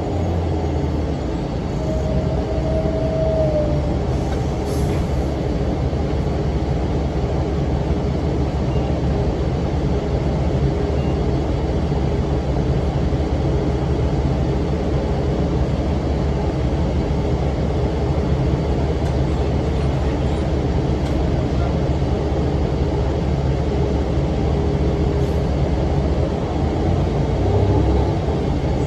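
Diesel city bus running on the move, heard onboard: the Cummins ISM engine and its cooling fan give a steady deep rumble. A short high whine sounds about two seconds in.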